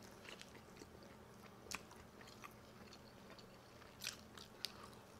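Faint mouth sounds of chewing and biting into chicken wings, close up, with scattered sharp clicks and smacks: one a little past halfway and two close together near the end.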